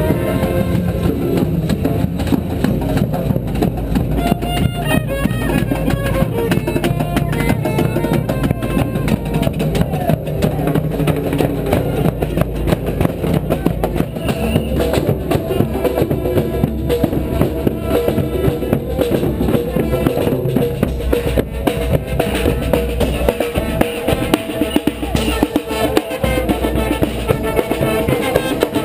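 Street band playing on the march: horns carrying a melody over a busy drum beat with bass drum.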